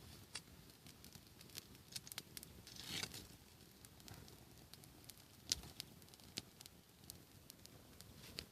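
Campfire crackling quietly: scattered sharp pops and snaps, the loudest about five and a half seconds in.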